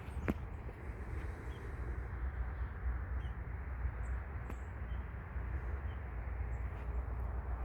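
Outdoor ambience: a steady low rush, with a few faint, short high bird chirps scattered through it.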